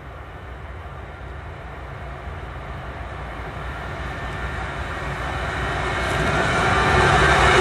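Train approaching, its rumble growing steadily louder.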